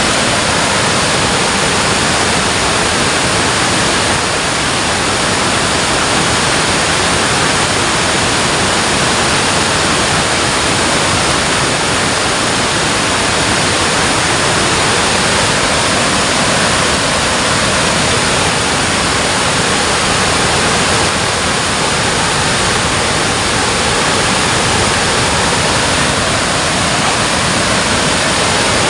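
Water pouring over a dam, a loud, steady rushing.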